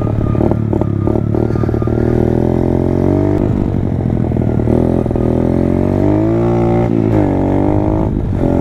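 Pit bike engine running under way, its pitch rising and falling as the throttle is worked, with short drops in revs about seven and eight seconds in.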